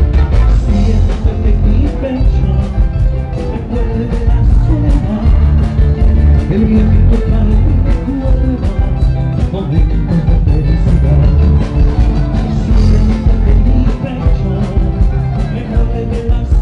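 A band playing loud music with a steady beat and heavy bass.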